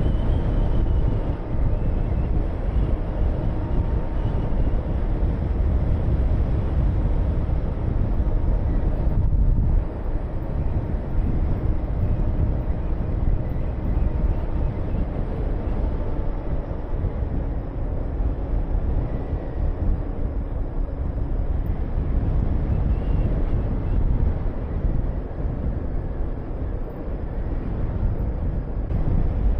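Honda VTR250 V-twin motorcycle engine running on the move, under a heavy rush of riding wind on the microphone. The sound dips briefly about ten seconds in.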